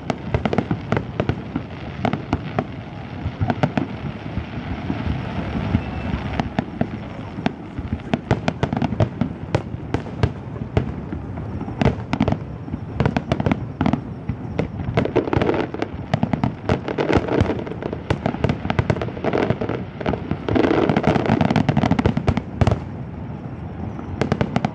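Fireworks display: many aerial shells bursting in quick succession, a continuous barrage of bangs and crackle that comes thickest about halfway through and again near the end.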